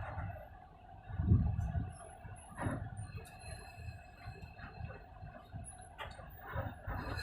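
Road and vehicle noise: uneven low rumbling with a louder thump about a second in and a few short clicks, with faint high chirps above it.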